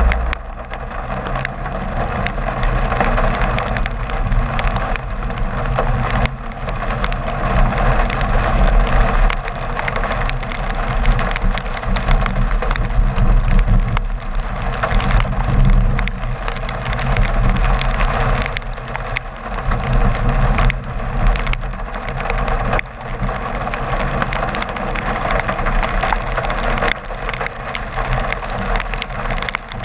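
Rain hitting the camera housing in a dense crackle of small ticks, over the steady low rumble of a car driving on a wet road.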